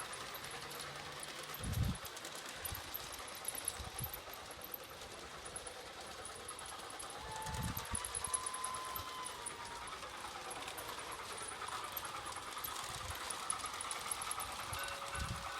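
Large-scale garden-railway model train running steadily along its track, with a continuous mechanical clatter and a couple of low thumps.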